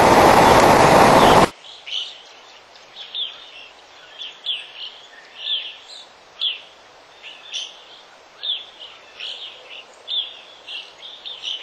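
Loud rushing-water noise of a waterfall that cuts off abruptly about a second and a half in. Then a bird calls over and over, short high chirps sliding downward about once a second over a faint background hiss.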